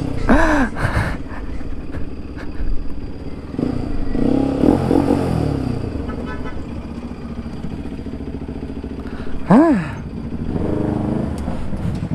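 Bajaj Pulsar NS200 single-cylinder engine running at low revs as the bike is ridden slowly, with short throttle blips that rise and fall in pitch, the loudest one shortly before the end.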